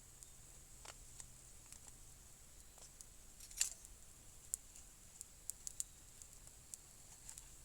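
Faint, sparse clicks and ticks, one louder click about three and a half seconds in and a quick run of them a little later, over a steady faint high hiss.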